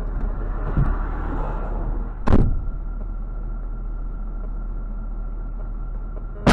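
Car running on the road, heard from inside on a dashcam, with steady road and engine noise and a single sharp bang a little over two seconds in.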